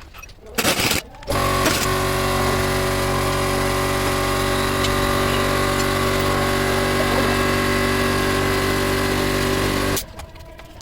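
A motor running at a steady speed, giving an even hum with a constant pitch. It starts abruptly just after a brief burst of noise and cuts off suddenly near the end.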